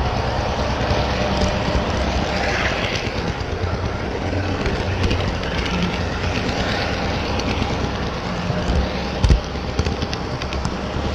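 HO scale model trains running on a large layout: steady hum of the locomotive motors and sound decoders with the rattle of wheels on the track. A short low thump comes near the end.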